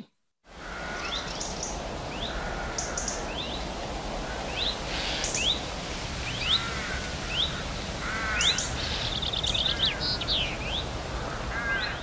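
Wild birds calling: many short, quick chirps and a brief rapid trill, with a few lower, harsher calls, over a steady outdoor background hiss.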